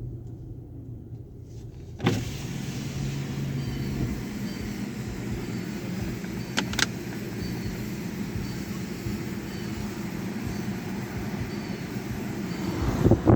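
Sonny's tunnel car wash equipment running: a low steady hum, then a loud steady hiss that starts suddenly about two seconds in and carries on. There is a sharp click near the middle, and a swell that rises and cuts off at the end.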